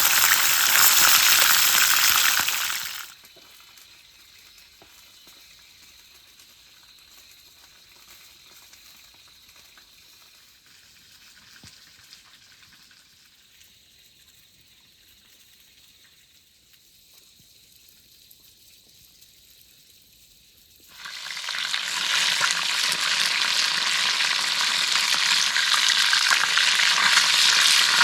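Chicken drumsticks sizzling as they fry in hot oil. The sizzle drops away to faint about three seconds in and comes back loud about seven seconds before the end.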